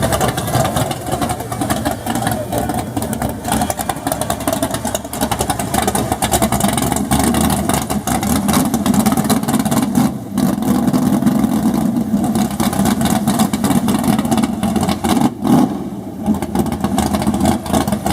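Car engine running loud with a rough, crackly exhaust rumble, easing off briefly twice.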